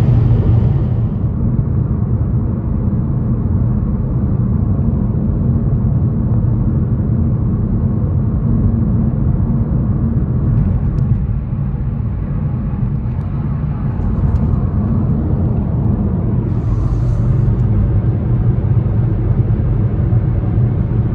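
Steady low rumble of a car's engine and tyres on the road, heard inside the cabin while driving. A brief hiss about three-quarters of the way through.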